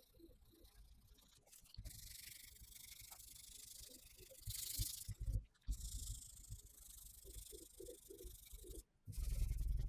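Abrasive pad or sandpaper rubbing over primed van body panels, a steady hiss in two long stretches, with a short break between them. Near the end comes a louder, duller rumbling burst.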